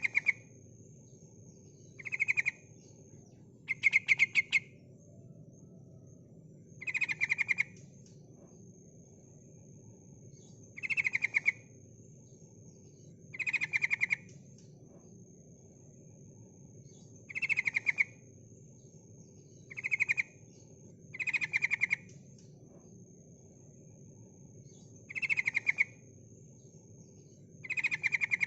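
Female yellow-vented bulbul (trucukan) calling: about eleven short, rapid chattering bursts, each under a second, repeated every two to four seconds. It is the female's call used to lure a reluctant male into singing.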